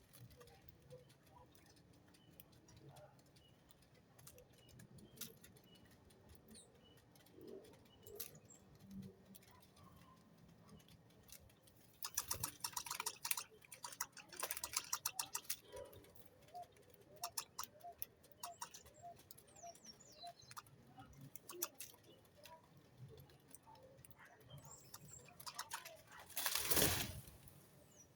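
Small birds moving about, with scattered clicks and taps and a run of quick rapid clicks midway. A brief flurry that sounds like wings flapping comes near the end.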